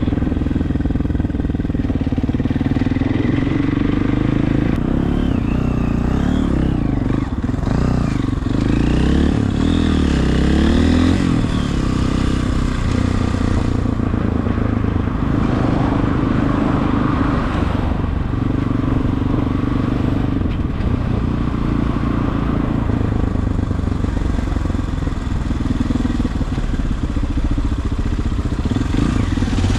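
Regulmoto TE enduro motorcycle engine running steadily while riding, its note rising and falling for a few seconds near the middle as the throttle changes.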